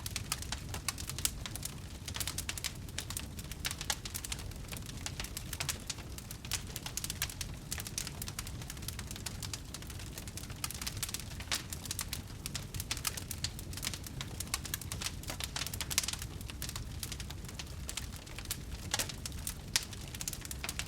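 Wood fire burning: dense, irregular crackling and popping from the burning logs over a soft low rumble, with a louder pop about two thirds of the way through.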